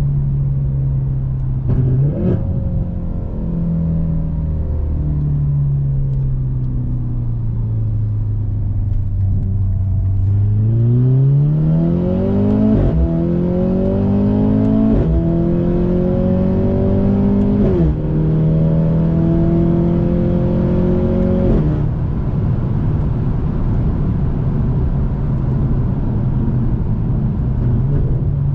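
Mercedes-AMG C43 (W206) turbocharged four-cylinder running through an aftermarket Fi exhaust with a catless downpipe. It eases off with the engine note slowly falling, then accelerates hard about a third of the way in, with three quick upshifts that each drop the pitch sharply. It then settles into a steady cruise.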